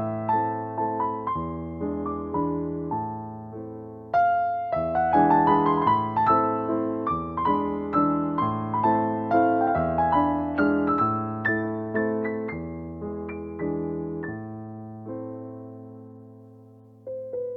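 Background piano music: a slow, gentle melody of single notes and chords, each note dying away. It swells about four seconds in, fades out near the end, then a new phrase begins.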